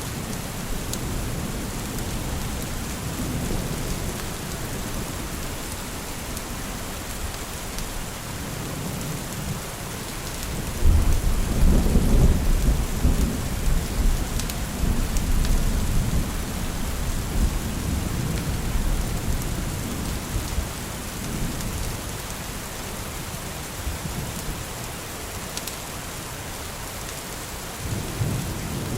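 Steady rain falling, with a low rumble of thunder rolling in about eleven seconds in and slowly fading over several seconds. Another rumble starts near the end.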